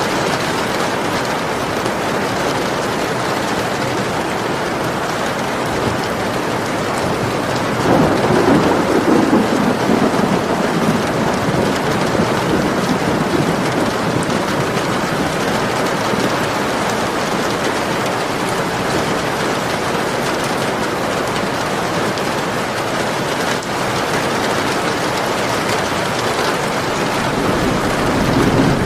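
Steady heavy rain, an even hiss throughout. A roll of thunder swells in suddenly about eight seconds in, and another low rumble builds near the end.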